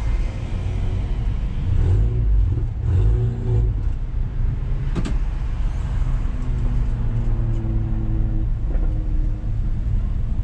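Renault Mégane RS's engine and drivetrain rumbling at low revs, heard inside the stripped, caged cabin while the car crawls along in slow traffic. A short sharp click about five seconds in.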